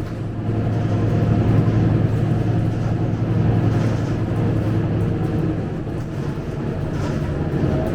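Scania K250UB bus running steadily on the move: an even engine hum with road and cabin rumble.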